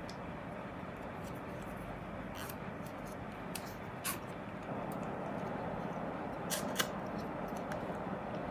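Light clicks and small scrapes of cardboard and paper packaging being handled while a laptop box is unpacked, scattered over a steady background hiss.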